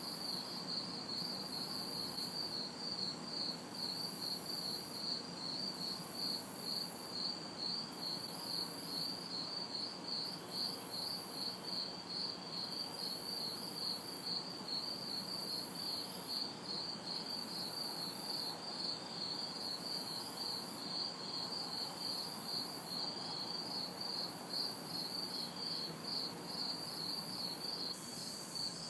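A chorus of crickets chirping in an unbroken, even pulse, with a higher-pitched insect buzz that comes and goes every second or so. Underneath is the faint hum of distant city traffic.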